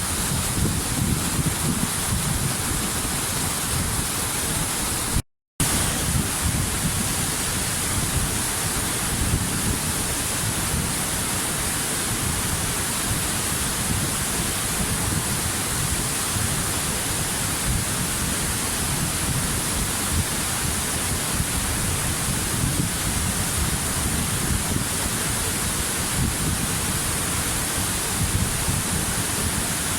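Waterfall: a steady, dense rush of falling water with a low rumble underneath. It cuts out for a split second about five seconds in.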